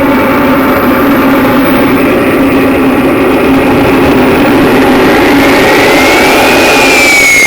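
Xicoy X45 model jet turbine running loud on HVO diesel during a ground run-up, a steady rushing noise over a low hum. About five seconds in, a high whine rises in pitch as it spools up, then slowly falls.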